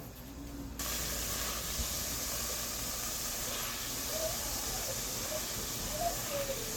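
Seasoned chicken frying in hot oil in a pot, a steady sizzle that starts abruptly about a second in.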